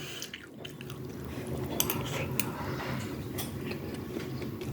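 Wet chewing and mouth sounds of someone eating fried rice, with a few sharp clicks, over a steady low hum.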